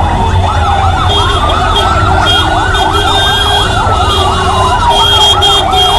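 Two emergency sirens sounding together: one a slow wail rising and falling, the other a fast yelp repeating several times a second, over a steady low rumble.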